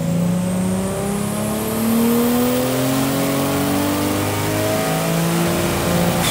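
Turbocharged RB26 straight-six in a Datsun 240Z pulling at full load on a chassis dynamometer, its revs climbing steadily through a power run. A faint high whine rises in pitch with it.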